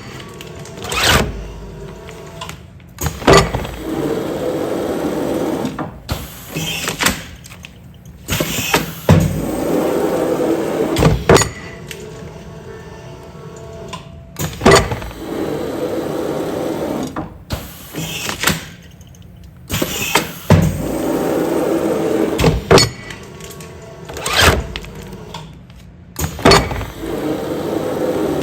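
Automatic container sealing machine running continuous sealing cycles, about five in a row: each cycle has sharp clunks from the mechanism followed by a stretch of steady motor hum, repeating about every five to six seconds.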